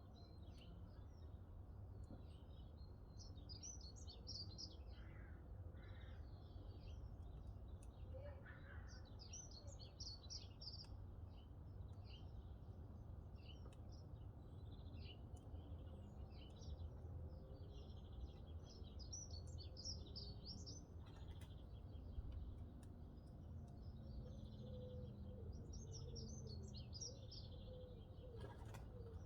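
Songbirds singing short, twittering phrases every couple of seconds, with a few faint clicks of wood crackling in a cast iron wood stove and a steady low hum underneath.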